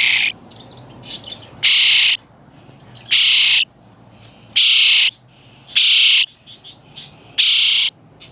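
A young hand-reared bird, nearly fledged, calling loudly and harshly about six times, roughly every second and a half, each call about half a second long. These are begging calls for food.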